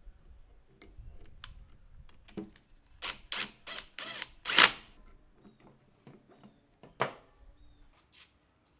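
Workshop handling of tools and metal parts: scattered light clicks and knocks, a run of five heavier clunks a few seconds in (the last the loudest), then another clunk about seven seconds in.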